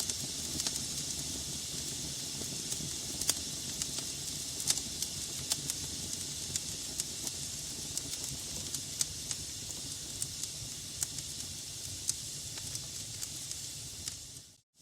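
Wood fire burning in a fireplace: a steady hiss with frequent sharp crackles and pops from the logs. It fades out briefly to near silence just before the end.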